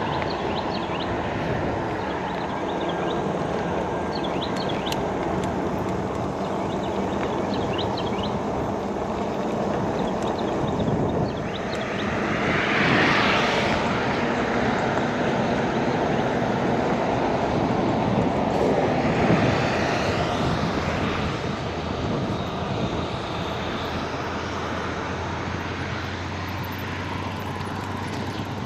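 Steady rumble of jet aircraft near the airport runway, with two louder swells like vehicles passing about twelve and nineteen seconds in.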